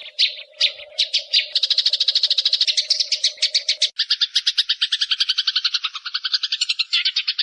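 Eurasian tree sparrows calling in a fight: separate sharp chirps that quicken about a second in into a dense, rapid rattle of chirps, turning into a lower, harsher chatter about four seconds in.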